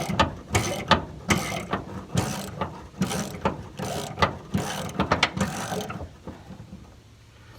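Hand ratchet being worked back and forth to loosen a truck bed bolt, its pawl clicking in a short burst on each return stroke, about one stroke a second. The strokes stop about six seconds in.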